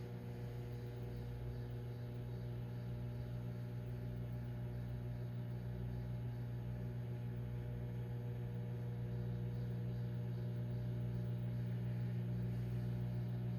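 Microwave oven running on a heating cycle: a steady, even hum.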